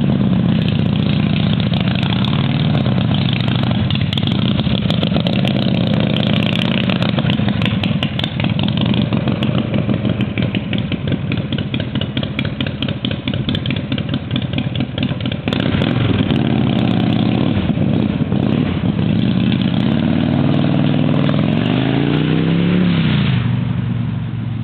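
A homemade chopper motorcycle's engine runs continuously, its revs rising and falling several times, with the biggest rise and fall near the end.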